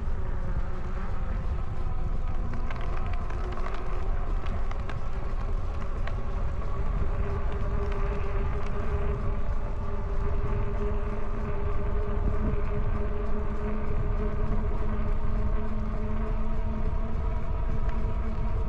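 E-bike hub motor whining steadily under power, its pitch wavering slightly with speed, over wind rumble on the microphone.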